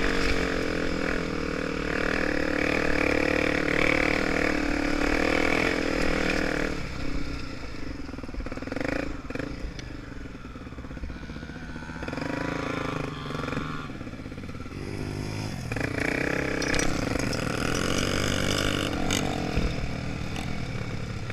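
Honda Tornado 250 motorcycle's single-cylinder four-stroke engine running while ridden. It runs loud for the first several seconds, drops quieter and lower through the middle as it eases off, then picks up again about sixteen seconds in.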